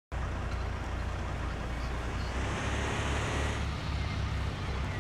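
A truck's engine and road noise: a steady low rumble under a constant hiss of wind.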